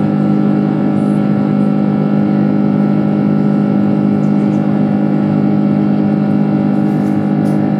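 Airbus A330-300's jet engines running steadily, heard from inside the passenger cabin: a constant drone with a stack of steady tones and no change in level.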